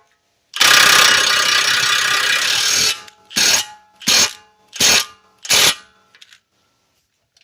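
Power wrench tightening a nut with a 24 mm socket. It runs in one long burst of about two and a half seconds, then in four short blips about 0.7 s apart.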